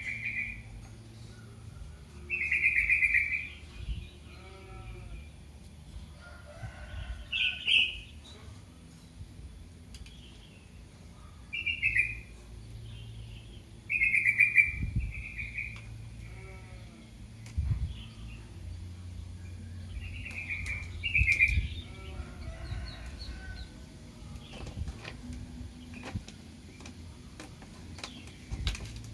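A young kitten mewing for its mother: about eight short, high-pitched cries a few seconds apart, with fainter mews between them.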